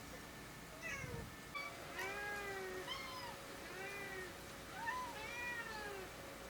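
Domestic cat meowing repeatedly: a short call, then three longer meows, each rising and falling in pitch.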